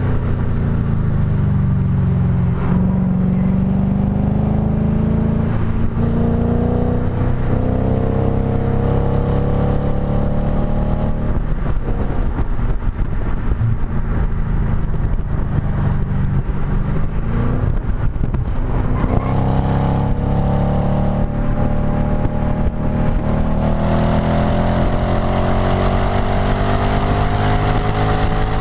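Audi B7 S4's 4.2-litre V8 through a STaSIS exhaust, heard close to the tailpipe, under hard acceleration on track. The pitch climbs and drops sharply at upshifts twice early on, wavers unevenly through the middle, then climbs in one long pull near the end, over steady wind and tyre noise.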